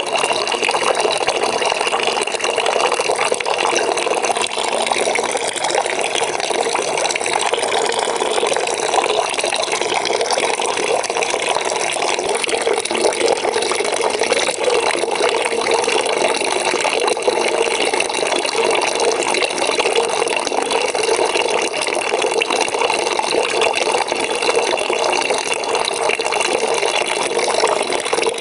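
Water running steadily into a bucket, a continuous splashing and gurgling pour.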